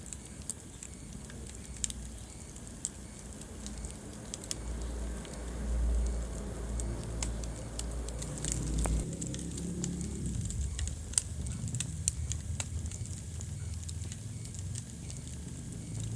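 Wood fire burning in a fireplace: scattered sharp crackles and pops over a low rumble of flames that swells for a few seconds near the middle.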